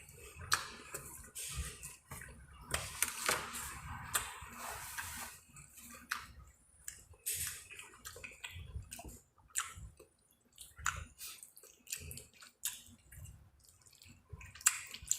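Close-up eating sounds: wet chewing and mouth smacks on creamy alfredo pasta, with many sharp clicks. A longer, noisier wet stretch comes about three to five seconds in.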